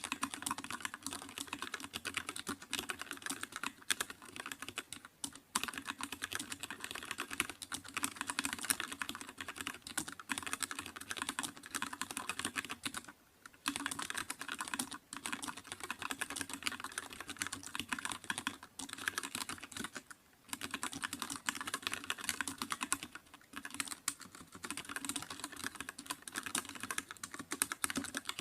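Fast, continuous typing on a computer keyboard, a dense patter of key clicks with a few brief pauses.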